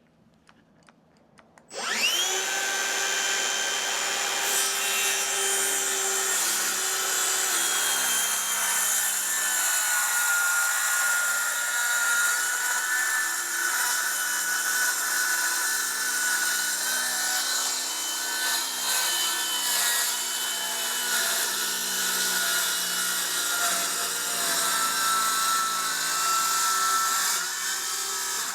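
Battery-powered circular saw starting about two seconds in, its whine rising as the blade spins up, then running steadily through a long cut in plywood. It stops abruptly at the end.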